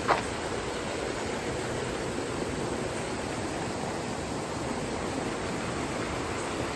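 A steady, even hiss of outdoor noise with no distinct events, apart from one brief sound just after the start.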